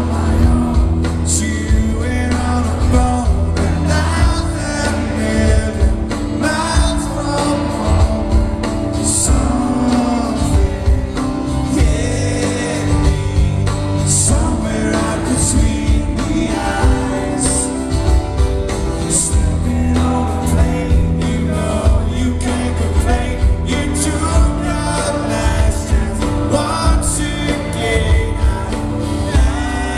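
Live band music with a male lead singer: a song played through, with sustained sung melody over instruments.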